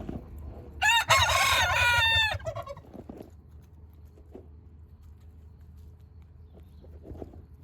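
A silkie rooster crows once, about a second in, a single crow lasting about a second and a half.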